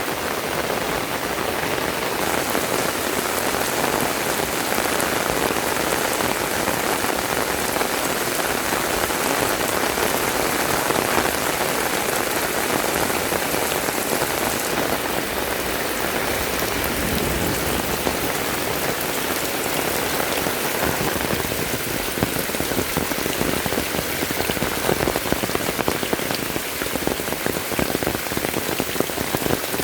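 Heavy rain falling steadily, a dense even hiss of drops hitting the ground and surfaces, with more distinct close drop splats in the last few seconds.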